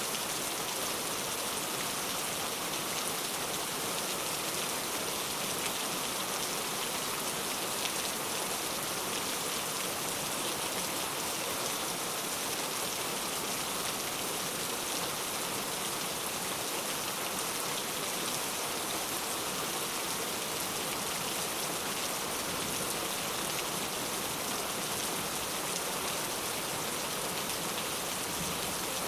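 Heavy rain falling steadily on hard surfaces: a constant dense hiss of drops with fine pattering, no thunder.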